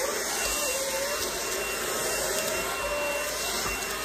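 Cordless vacuum cleaner motor running steadily: a rushing hiss of air with a high steady whine and a lower tone that wavers slightly.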